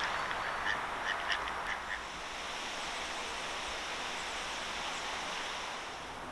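Ducks quacking a few short times in the first two seconds, over a steady outdoor hiss.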